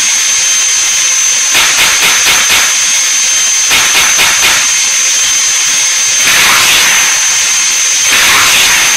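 Synthesised twin jet-turbine sound played by a Benedini TBS Mini sound module: a steady high turbine whine. Two short runs of rapid clattering about one and a half and three and a half seconds in, then two rushing swells about six and eight seconds in.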